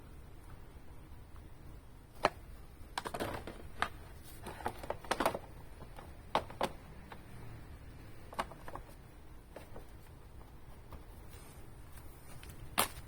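Scattered light clicks and knocks, about a dozen at irregular intervals, mostly bunched together in the first half and once more near the end, over a low steady hum.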